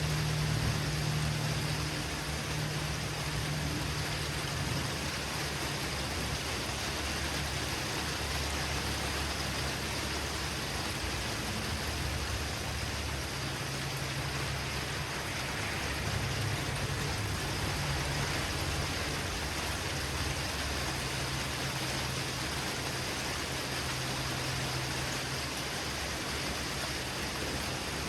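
Heavy rain falling steadily during a thunderstorm, a continuous even hiss, with a low hum underneath.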